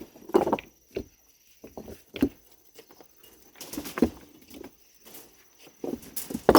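Irregular knocks, thuds and short scrapes of manual construction work, a few a second apart, as materials are handled and set down.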